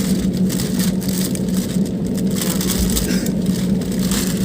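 Airliner cabin noise just after landing: a loud, steady rumble of the engines and the rolling aircraft with a constant low drone, broken by irregular light rattles.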